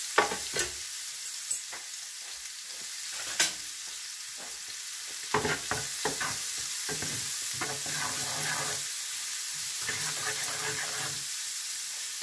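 Chopped shallots with garlic and ginger paste sizzling in a little hot oil in a frying pan, a steady hiss, while a spatula stirs and scrapes them with a few sharp knocks against the pan.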